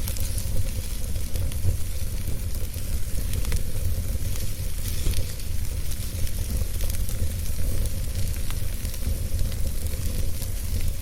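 Wood fire burning in a fireplace: a steady low rumble under a hiss, with scattered small crackles and pops.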